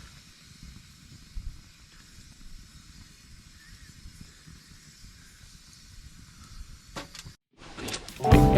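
Wood fire burning with a steady soft hiss and scattered small crackles, with one sharper pop about a second and a half in. Near the end the sound cuts out briefly and music starts.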